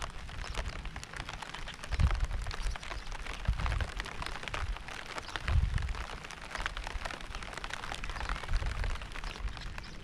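Steady rain, many separate drops hitting close by, with low rumbles swelling about two, three and a half and five and a half seconds in.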